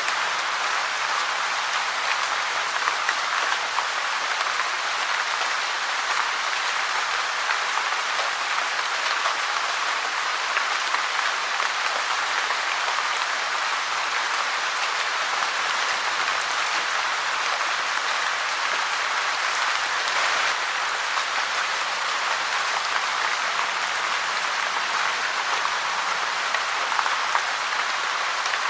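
Steady rain falling: a constant, even hiss of dense drops with no let-up.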